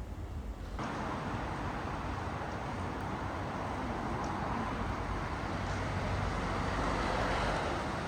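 Steady rushing vehicle noise that starts suddenly about a second in and swells slightly near the end.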